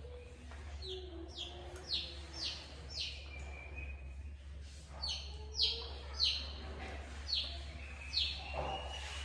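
A bird calling: two runs of short, high, downward-slurred chirps at about two a second, each run ending in a longer steady whistle, over a low steady hum.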